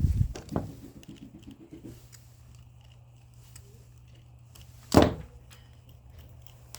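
Clatter of scrap electronic parts being handled at the start, then a single sharp clack about five seconds in, over a steady low hum.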